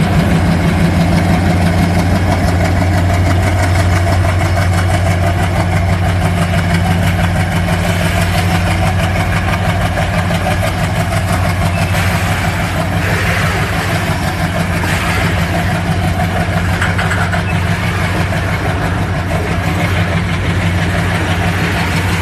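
Indian Railways diesel locomotive engine running steadily with a deep, even dhak-dhak throb, a hissing sound rising over it for a few seconds in the middle.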